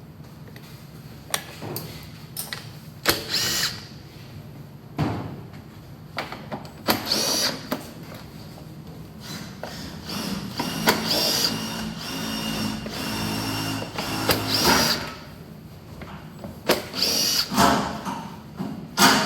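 Handheld power driver spinning bolts out in short runs, its motor whine rising as each run starts, with one longer run in the middle and metal clicks and knocks of tools and parts between runs, as a Honda Zoomer scooter's engine is unbolted.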